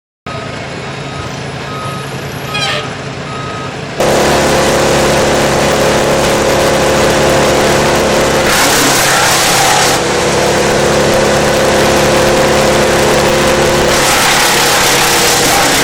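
Heavy diesel wood-chipping machinery running steadily, in several spliced clips whose sound changes abruptly about 4, 8.5, 10 and 14 seconds in. The first, quieter stretch carries a short beep repeating at an even pace.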